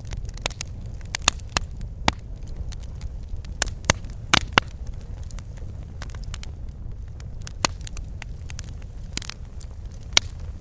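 Fireplace fire crackling, with irregular sharp pops over a low steady rumble. The loudest are two pops close together about four and a half seconds in.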